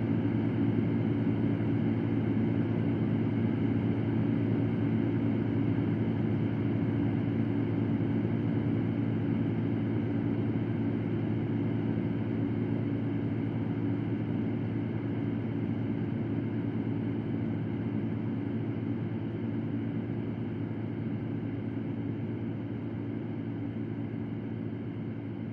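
Electric fan running steadily: an even rush of air over a low, constant hum, growing a little quieter toward the end.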